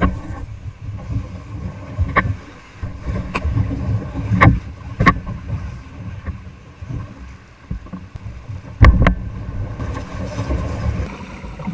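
Kayak running river rapids: rushing water and wind rumble on the microphone, with several sharp knocks against the kayak's hull, the loudest two in quick succession near the end.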